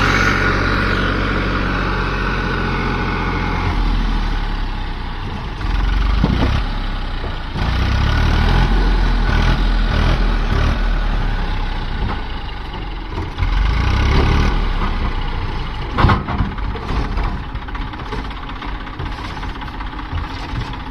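TAFE tractor diesel engines running, the loudness rising and falling every few seconds, with one sharp knock about sixteen seconds in.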